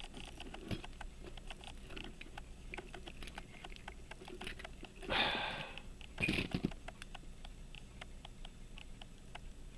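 Ticking of an 18-size key-wind Illinois pocket watch movement, just wound and running after a cleaning: a rapid, uneven run of small clicks. It runs, but not well. A louder rustle about five seconds in and a handling knock a little after six seconds stand out over the ticks.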